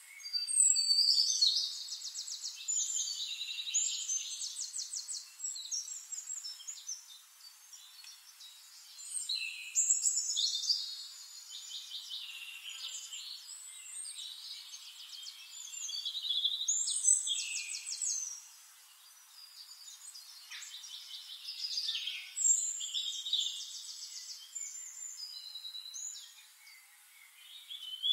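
Birds singing: bursts of rapid, high trills and chirps come every several seconds, with quieter gaps between them.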